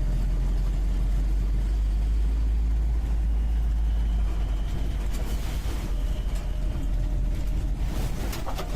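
UAZ 469B's four-cylinder petrol engine running under way, heard from the passenger seat inside the cabin as a steady low drone. The drone drops a little about halfway, and a few clicks and rattles come near the end.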